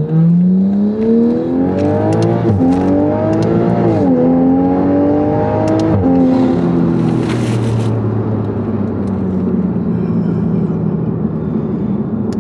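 Toyota Supra's B58 turbocharged inline-six with a titanium aftermarket exhaust, accelerating hard: the engine note climbs, drops at each upshift about four and six seconds in, then settles into a steady cruise with tyre and road noise.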